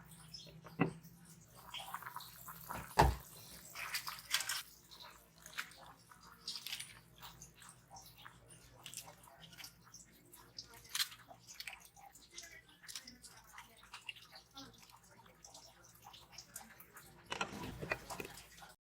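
Kitchen sounds around a pot of pork-rib soup: liquid sloshing and dripping, with scattered small clinks and one louder knock about three seconds in.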